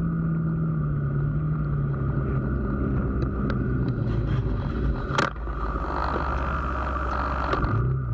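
Car driving, recorded from a dash cam: steady engine and road noise, the engine note slowly dropping, with one sharp knock about five seconds in.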